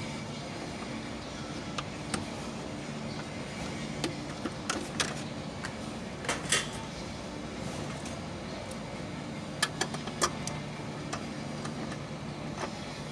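Scattered sharp metallic clicks and taps of hand tools on car parts, several in quick succession about two-thirds of the way through, over a steady low mechanical hum.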